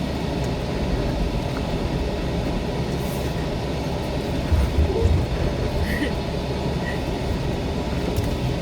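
Off-road vehicle engine running at low speed as it crawls over the rocky trail, a steady low rumble that swells briefly about four and a half seconds in.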